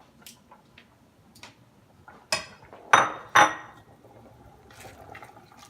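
A metal utensil clinking against a cooking pot: a few light clicks, then three sharp ringing clinks between about two and three and a half seconds in, and a few softer knocks near the end.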